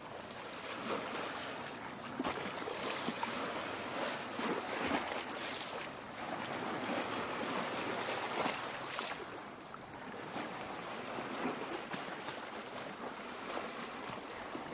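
Lake water lapping and splashing at the shore, swelling and easing over a few seconds at a time, with many small splashes.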